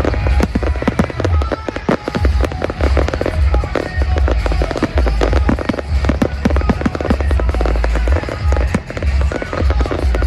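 Fireworks display: continuous rapid crackling and popping with repeated deep booms of shells bursting, with music playing alongside.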